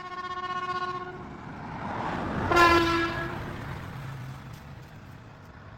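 A vehicle horn sounds twice as a vehicle goes past: a held note of about a second, then a louder, shorter blast about two and a half seconds in, while the vehicle's noise swells and fades away.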